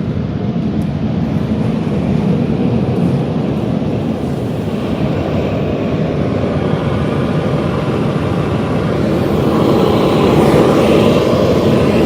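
Automatic car wash machinery heard from inside the car: a steady rushing wash of water spray and cleaning equipment against the body, growing louder near the end.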